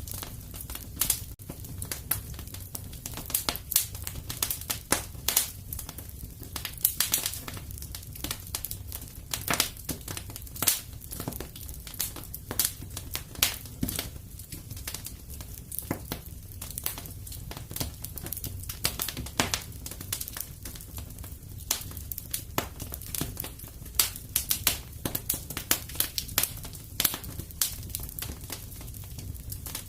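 Fireplace fire crackling: irregular sharp pops and snaps, some clustered in quick runs, over a steady low rumble.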